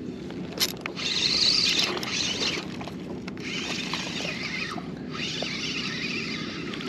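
A fishing reel being cranked to retrieve line, whirring in three spells after a sharp click.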